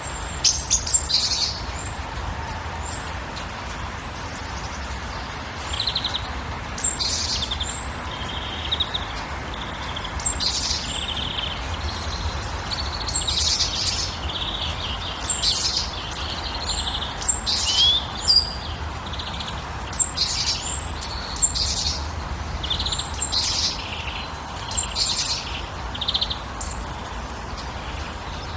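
Songbirds chirping and calling, with short high notes and whistles repeating every second or so, over a steady low rumble.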